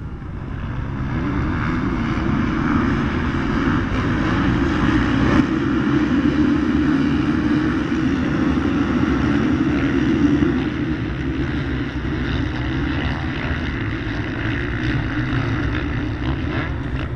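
A pack of motocross bikes racing, with many engines buzzing together at high revs. The sound swells about a second in, holds, and eases a little after about ten seconds.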